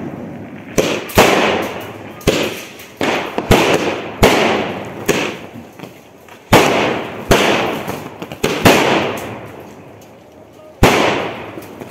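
Multi-shot sky shot firework cake firing: sharp bangs of bursting aerial shells about once a second at uneven spacing, each followed by a fading crackle, with a pause of about two seconds before a last bang near the end.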